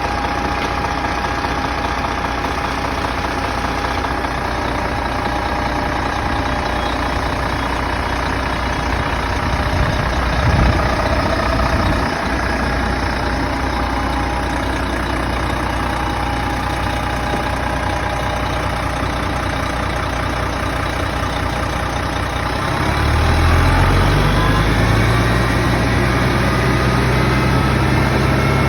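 Vehicle engine running steadily at low idle, then about three-quarters of the way through rising smoothly to high idle and holding there, a little louder. A couple of brief low thumps come around the middle.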